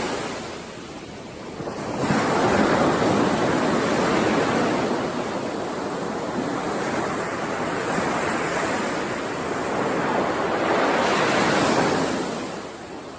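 Sea waves surging and washing ashore in slow swells, with a lull about a second in and another near the end.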